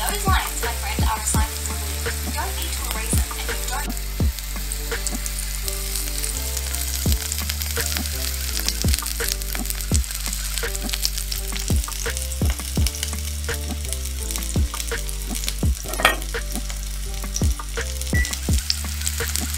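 Food sizzling and crackling as it fries in a pan, over a background music track with a stepping bass line.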